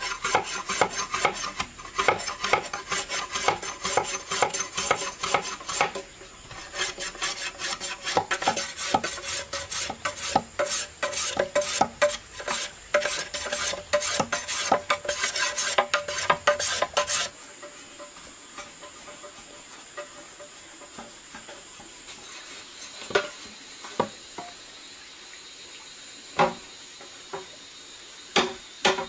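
A utensil scraping and stirring in a cooking pan in rapid repeated strokes. It stops abruptly about two-thirds of the way through, and only a few separate knocks follow.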